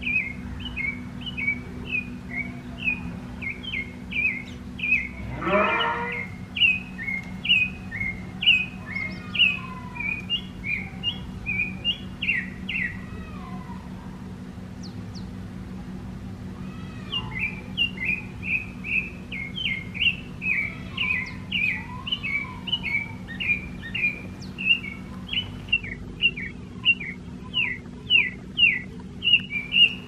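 Birds chirping: a long, rapid run of short high notes, about three a second, with a pause about halfway and a few lower slurred whistles from another bird mixed in. One louder rising sweep about five seconds in.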